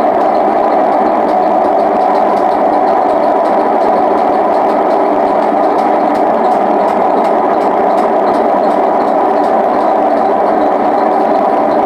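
Hotpoint WM74 washing machine on its spin cycle, a loud, steady rumble from the drum spinning on worn-out bearings that need replacing.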